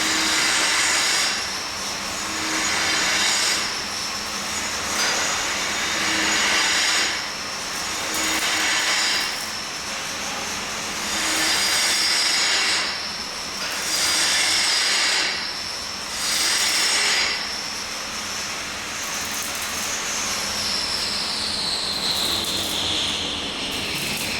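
Angle grinder running with a steady high whine, its disc pressed onto steel in repeated passes of a second or so each, then switched off, its whine falling in pitch as the disc winds down near the end.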